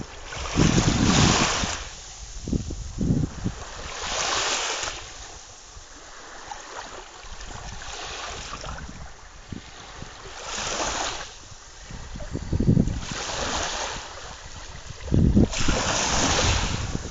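Sea waves breaking and washing in, in surges every two to four seconds, with wind buffeting the microphone at the start and again near the end.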